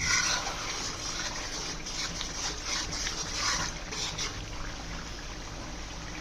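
Steady trickling, hissing liquid sound.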